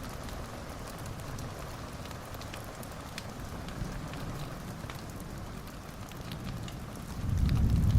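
Wood fire crackling in a fireplace: a steady hiss with scattered sharp pops and snaps. About seven seconds in, a loud low rumble sets in and stays.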